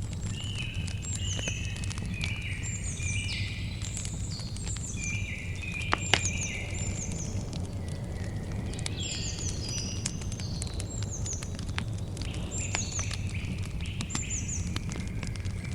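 Campfire crackling with scattered small pops and one sharper pop about six seconds in, over a steady low rumble. Birds chirp over it with quick runs of short, falling high calls.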